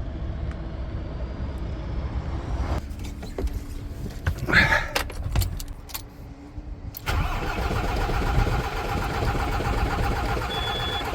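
DAF CF truck's diesel engine turned over by its starter motor for about four seconds without firing, a cranks-but-won't-start fault. Before it come a few clicks and a brief loud clatter.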